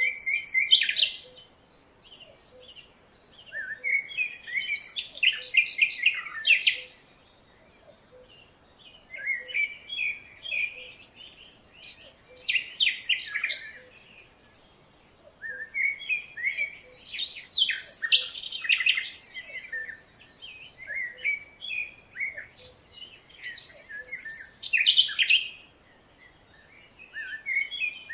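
Songbirds singing in bursts of rapid, high chirping phrases a few seconds long, with short pauses between them. Underneath, a faint low note repeats about twice a second.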